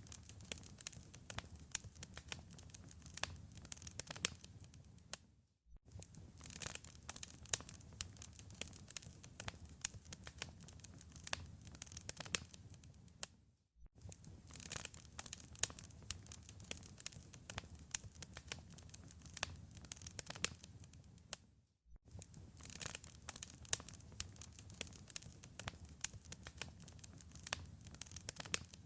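Wood fire crackling in a fireplace: many sharp pops and crackles over a soft low rumble. The sound drops out briefly three times, about every eight seconds.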